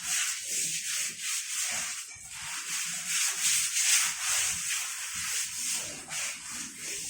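Rhythmic scrubbing strokes, a hissing rasp repeating about three times a second.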